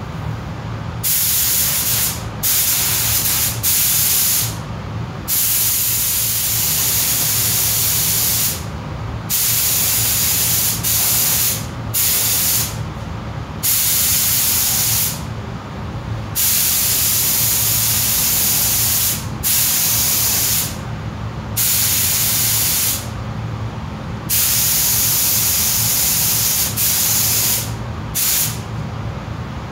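Paint spray gun spraying acrylic primer onto small car trim parts. It hisses in about a dozen passes of one to three seconds each, with short pauses between, over a steady low hum.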